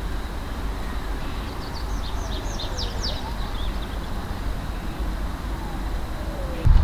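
A songbird sings one short phrase of quick, high, downward-sliding notes about two seconds in, over a steady low rumble like wind on the microphone.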